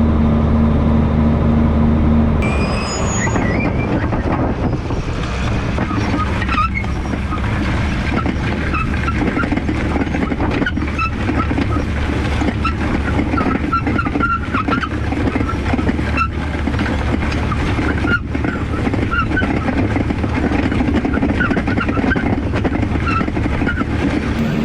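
Tractor engine running steadily while planting, at first a smooth low hum. About two seconds in it changes abruptly to a rougher, noisier running sound with many short high chirps over it.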